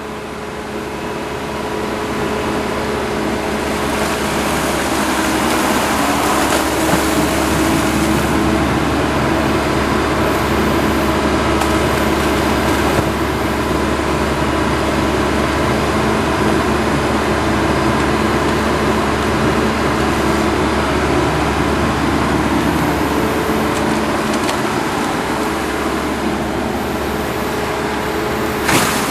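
Engine of the heavy equipment back-filling a drainage trench, running steadily; it grows louder over the first few seconds, then holds level.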